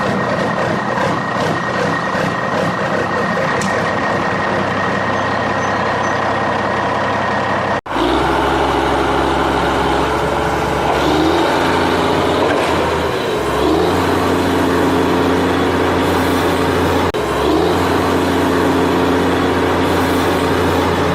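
Truck-like engine sound running steadily, cutting out sharply about eight seconds in and coming back as a deeper hum that shifts in pitch a few times.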